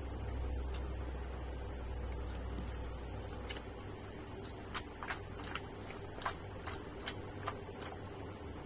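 Chewing of crunchy fresh pineapple and mango chunks, with scattered small clicks and taps as a plastic bowl and fork are handled. A low rumble fades out about three and a half seconds in.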